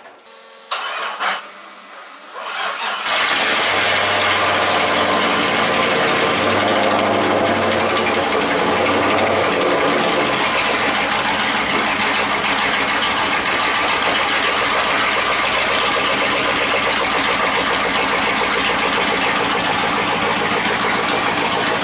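LS1 V8 engine cranks for about three seconds, catches, and settles into a steady cold idle. It runs through a custom 2.5-inch single straight-pipe exhaust with a MagnaFlow resonator. Its pitch wavers for several seconds after it catches before holding even.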